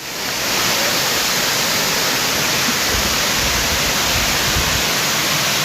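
Waterfall running: a steady, loud rush of falling water that swells up in the first half second and then holds even.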